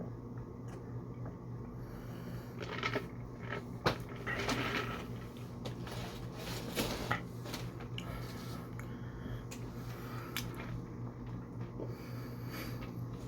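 A person eating close to the microphone: chewing and wet mouth sounds with scattered sharp clicks, busiest in the first half, over a steady low hum.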